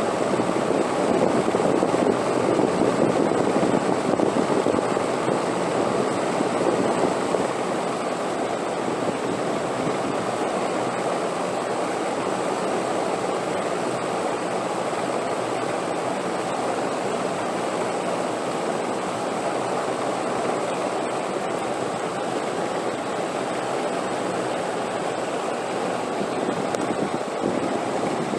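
Steady wind, an even rushing noise that is a little stronger over the first several seconds and then holds steady.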